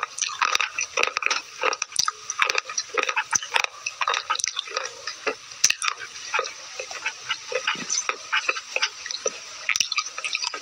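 Slate pencil pieces being crunched and chewed close to the microphone: rapid, irregular crisp crunches, several a second.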